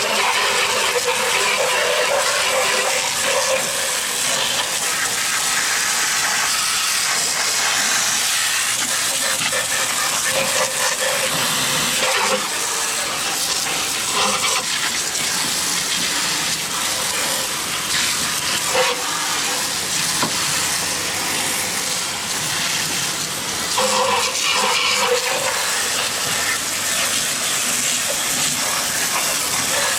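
Garden hose spraying water in a steady hiss onto a lawnmower deck to wash it out. The tone shifts now and then as the spray moves, and there are a few brief louder spots.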